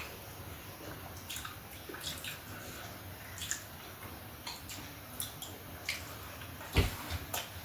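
Close-up eating sounds: scattered wet chewing and smacking clicks, with a single low thump a little before the end.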